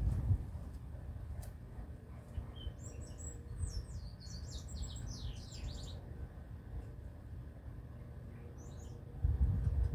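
A small songbird sings a quick run of high, short, falling chirps lasting about three seconds, beginning nearly three seconds in. A low rumble underlies it and grows louder near the end.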